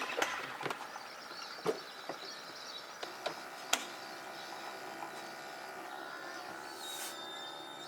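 A handful of short, sharp clicks and knocks, most of them in the first half, over a faint steady background.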